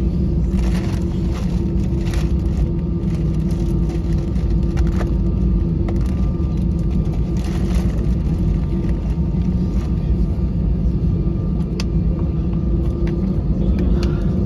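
Steady low rumble inside the passenger cabin of an Airbus A320-214 on the ground after landing, with a constant mid-pitched hum over it and a few faint clicks.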